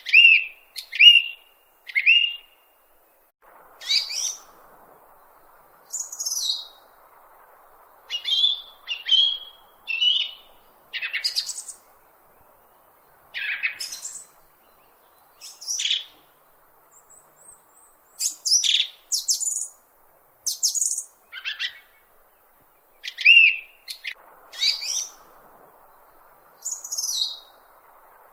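Bird chirping in a series of short, varied chirps and whistles, some falling in pitch, about one a second.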